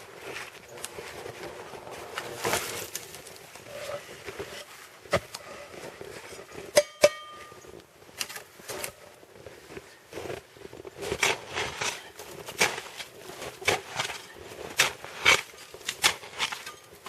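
Snow being dug out and cleared down to the ground: a series of crunching, scraping strokes, sparse at first and coming quickly, roughly one or two a second, in the second half. A sharp click sounds once near the middle.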